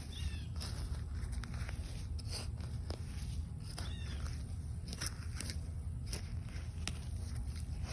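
An animal giving short, high, bending calls about every four seconds, three in all. Under them runs a steady low rumble, with scattered light clicks and rustles of handling.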